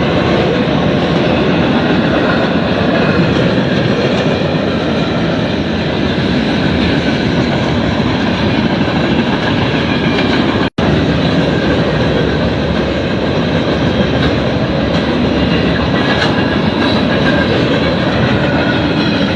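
Norfolk Southern freight cars, loaded with farm equipment, rolling steadily past with wheels clattering over the rail joints. The sound cuts out for an instant about ten seconds in.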